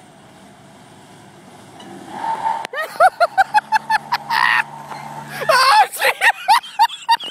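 Vehicle engines running under load during a car-versus-truck pull, building up about two seconds in, with a steady low engine tone under loud, rapid excited yells and shouts from onlookers.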